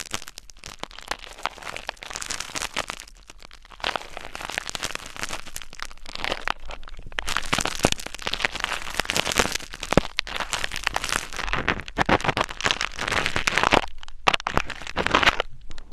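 Close-miked ASMR scratching: dense, irregular crackling and crinkling, pausing briefly a few seconds in and again near the end.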